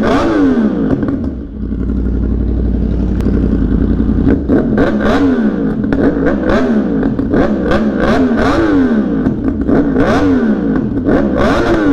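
2023 Yamaha R1's crossplane inline-four, running through an M4 link pipe and SC Project muffler, being revved while stationary: a string of quick throttle blips, about one a second, each falling back in pitch, with sharp exhaust pops and crackles as the revs drop.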